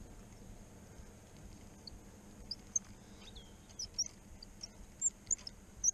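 Small birds chirping: short, high chirps scattered irregularly through the second half, faint against a quiet background.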